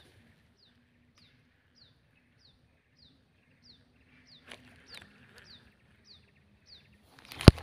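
A bird calling over and over in a steady series of short, high, falling notes, about two a second. A loud sharp knock comes near the end.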